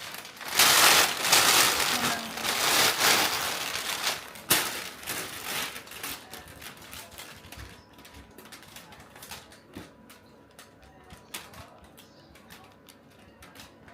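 Loud rustling and crinkling for about five seconds, then scattered light clicks and taps that grow fainter.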